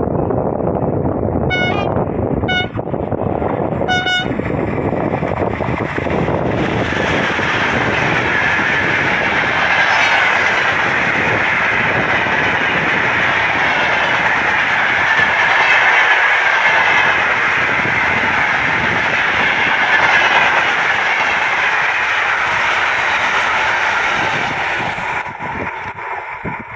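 A train horn gives three short toots, then a freight train passes at speed with a long, loud rush of wheel and rail noise that fades away near the end.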